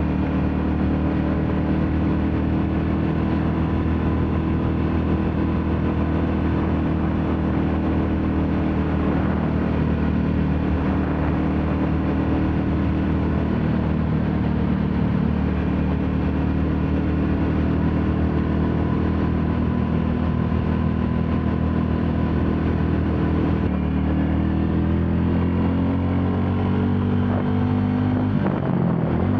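Royal Enfield Classic 350's single-cylinder engine running steadily under way. About 24 seconds in, its pitch steps up and then climbs gradually as it accelerates, before dropping sharply near the end.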